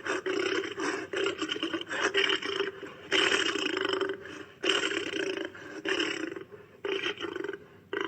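Lion giving rough, noisy roaring calls in about four bouts, with short breaks between them.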